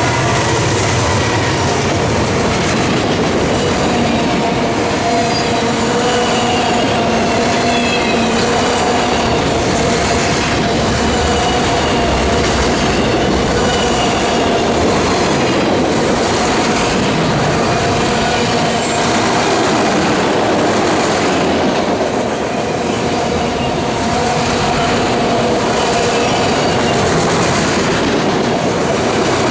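Freight train cars rolling steadily past, with clickety-clack of wheels over rail joints and thin wheel squeal.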